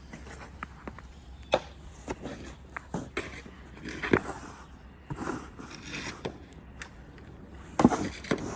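Snow and ice being cleared: irregular scraping strokes and sharp knocks, with the loudest knocks about a second and a half in, about four seconds in, and near the end.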